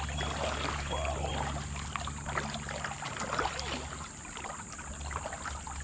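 Water trickling and dripping around a kayak, with many small splashes from the paddle.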